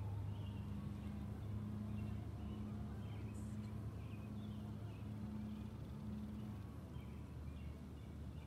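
Small birds chirping now and then over a low, steady hum.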